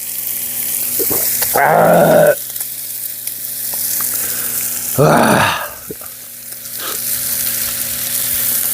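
Lamb sizzling steadily on a cast-iron cauldron lid over a wood stove, with two short louder sounds breaking in, about two seconds in and again about five seconds in.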